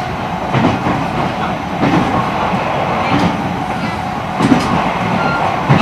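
E129 series electric train running at speed. Steady wheel-and-rail running noise, with a knock from the rail joints about every 1.3 seconds.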